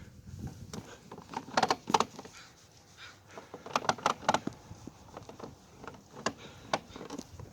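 Footsteps on the roof of a fifth-wheel trailer: irregular sharp knocks, some in quick pairs and clusters.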